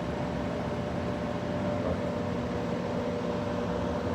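Outdoor air-conditioning condenser unit running with a steady mechanical hum.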